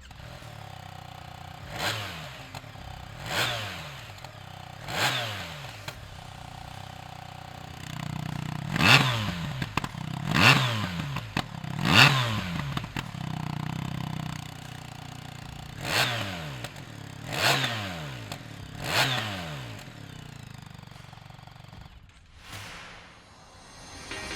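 BMW R1300 GS boxer-twin engine idling through a Jekill & Hyde valved exhaust and blipped three times, then three more times louder, then three more times quieter, as the exhaust is switched through its three sound modes. Each blip rises and falls back to idle.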